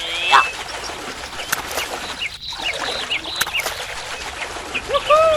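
Birds chirping with short, repeated calls, and a louder, lower arching call near the end.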